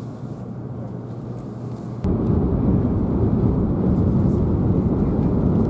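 Steady low rumble of a Kyushu Shinkansen train running, heard inside the passenger cabin. It gets suddenly louder about two seconds in and stays at that level.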